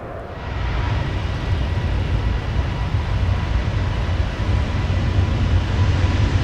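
Airbus A350-900's Rolls-Royce Trent XWB turbofans at takeoff thrust. A deep, steady jet rumble with a faint steady whine, coming in abruptly just after the start and building slightly.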